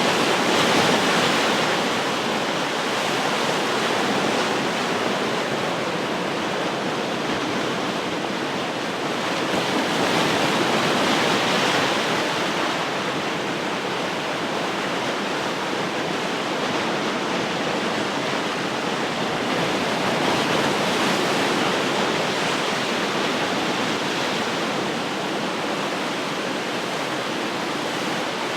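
Ocean surf: waves breaking and washing ashore in a steady rush that swells a little louder about every ten seconds.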